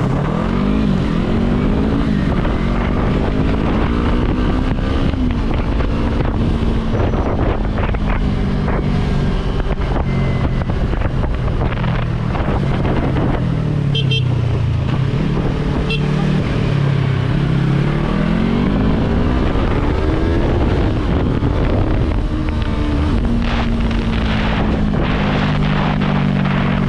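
Yamaha R3's parallel-twin engine under way, its pitch climbing and falling several times as the bike accelerates and slows, then holding steady near the end. Wind rushes over the microphone throughout.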